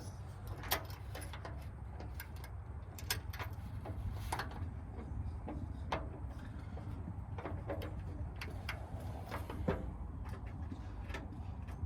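Scattered light clicks and taps of washers and a nut being handled and fitted on a tractor's rear light bracket, at irregular intervals over a steady low rumble.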